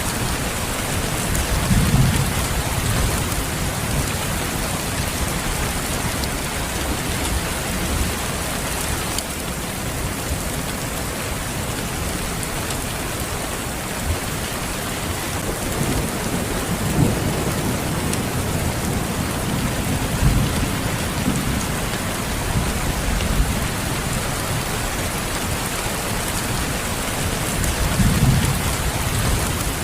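Steady rain falling, with low rolls of thunder swelling a few times: near the start, through the middle and near the end.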